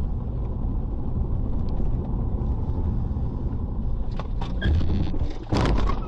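A car driving, with a steady low rumble of engine and road noise. Near the end come a few short knocks, then a sudden loud burst of noise lasting about half a second.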